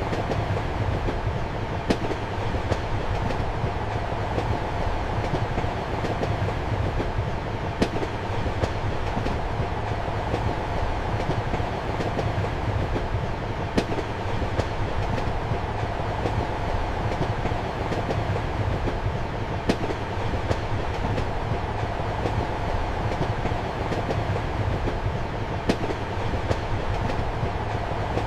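Steady rumble of a moving passenger train carriage heard from inside the compartment, with the clickety-clack of the wheels over rail joints. A sharp click sounds about every six seconds over the continuous running noise.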